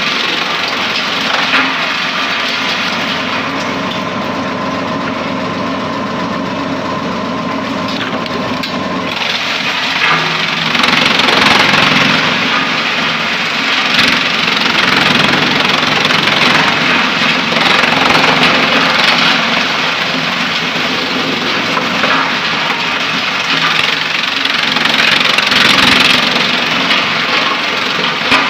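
Drum-type wood chipper running steadily. From about nine seconds in, the sound turns louder and rougher, with crackling as wood is chipped.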